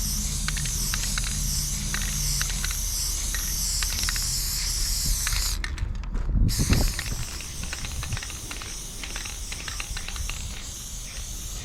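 Aerosol spray paint can spraying in long passes as a graffiti fill goes on, a steady wavering hiss. The spray stops briefly about halfway through, and there is a low thump as it starts again.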